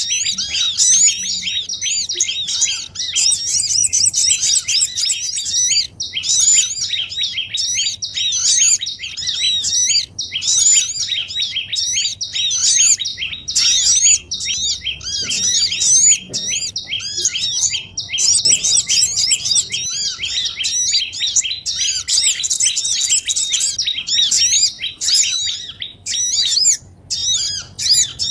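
A dense, continuous chatter of many small songbirds, quick high chirps overlapping with only brief gaps. It is a bird-lure (pikat) recording made to call small birds down.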